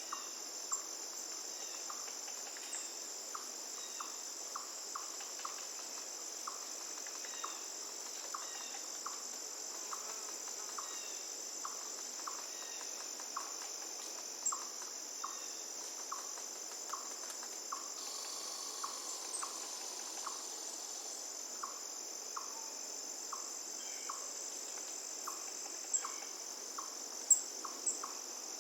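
Crickets trilling steadily at a high pitch, with a short call repeating about every two-thirds of a second underneath. A few sharp clicks stand out near the end.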